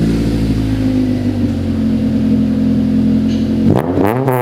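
Honda Civic EK4's B16A2 four-cylinder engine running steadily through a freshly fitted high-flow cat and catback exhaust, then revved about three and a half seconds in, its note rising and falling.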